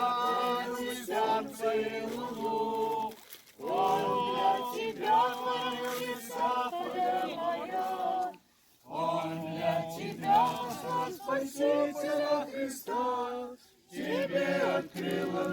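A group of men and women singing together without instruments, in held phrases with short pauses between them about every four to five seconds.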